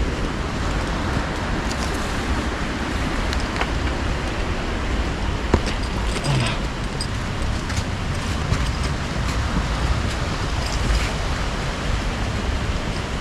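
Steady rushing of flowing river water, with a deep rumble underneath and a few sharp clicks.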